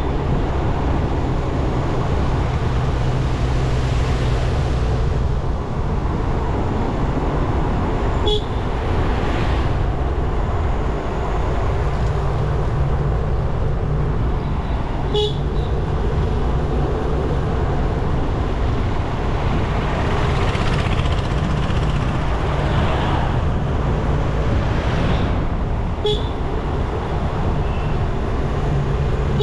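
Motorcycle engine running steadily under wind and road noise while riding, with three short taps of the horn, about 8, 15 and 26 seconds in.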